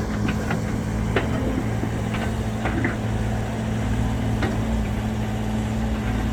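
Sumitomo SH130-6 excavator's Isuzu diesel engine running steadily, a low, even hum with little howl, with a few brief light ticks.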